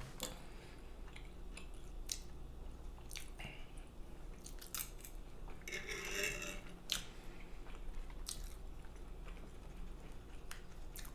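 A person chewing and biting food, with scattered short mouth clicks and smacks and a louder stretch of chewing about six seconds in.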